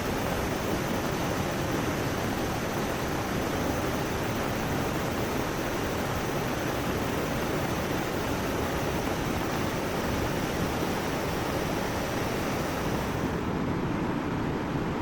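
Heavy rain pouring steadily, mixed with the rush of a swollen river: a loud, even wash of water noise. About two seconds before the end the high hiss drops away suddenly.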